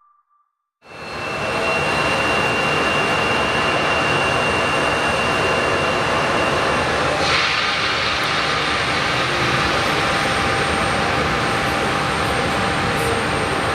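Diamond DA40NG's turbo-diesel engine and propeller running steadily, heard across the airfield; the sound shifts about halfway through.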